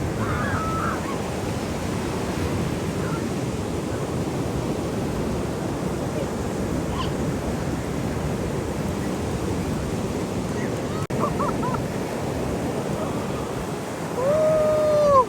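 Ocean surf washing onto the beach, a steady rush of breaking waves. Near the end a drawn-out call of about a second rises over the surf.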